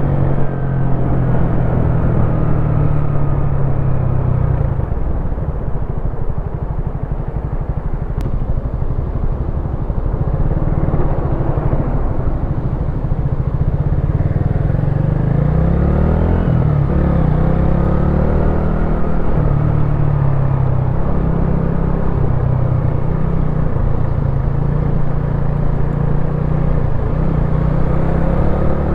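Wolf Classic 125cc motorcycle engine running while riding, its note steady at first, then easing off and picking up again, with the pitch dipping and climbing about midway as the throttle and speed change.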